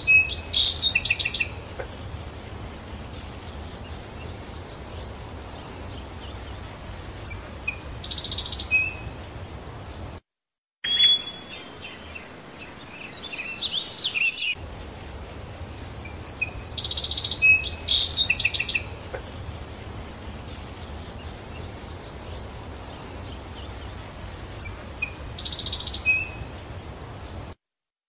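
A small songbird singing short, bright, chirping phrases that come back every few seconds, over steady low outdoor background noise. The sound drops out briefly twice.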